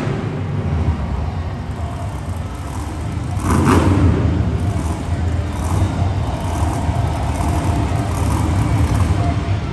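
Monster truck engine running loud and low in an arena, swelling briefly about three and a half seconds in.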